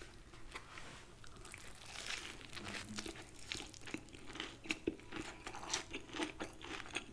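Close-up chewing of crispy fried chicken, with irregular crunches and soft mouth sounds.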